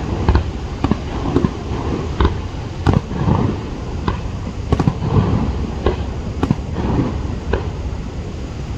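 Fireworks bursting overhead: an irregular series of sharp bangs, roughly one or two a second, over a continuous low rumble.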